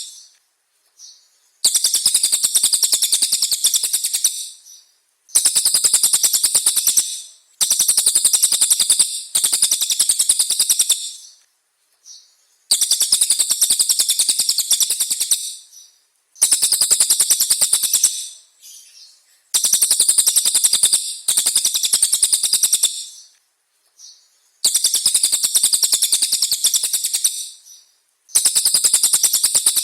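A songbird delivering a run of very rapid, high-pitched trills in repeated bursts. There are about ten bursts, each lasting around two seconds, with short pauses between them. This is the kind of fast 'tembakan' trilling used on masteran tapes to train cage birds.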